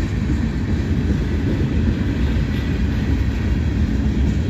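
Freight train cars rolling past, a steady, continuous rumble of steel wheels on the rails.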